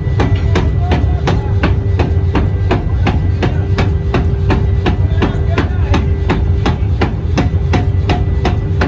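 Rapid, evenly spaced hammer blows on metal, about three a second, over a steady machine hum and low rumble in an axle workshop.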